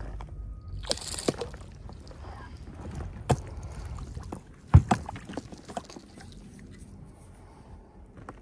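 Knocks and handling sounds on a small fishing boat over low water sloshing, with a short hissy splash about a second in and the loudest knock just before five seconds.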